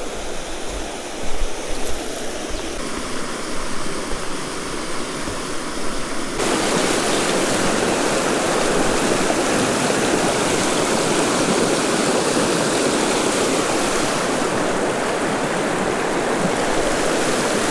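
Creek water rushing over rocks, a steady hiss that suddenly gets louder and fuller about six seconds in.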